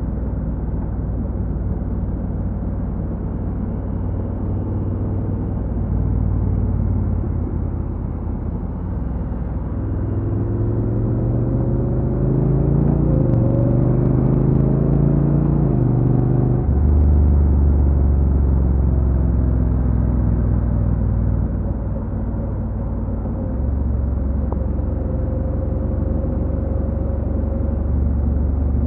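Honda NC750X parallel-twin engine running under way, with a steady low rumble and road noise. About a third of the way in the engine note climbs for several seconds, then drops and settles low just past the middle.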